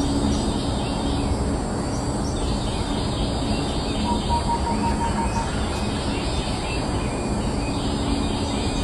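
Soft background music over a nature ambience: a steady rushing noise with many small bird chirps and calls scattered through it.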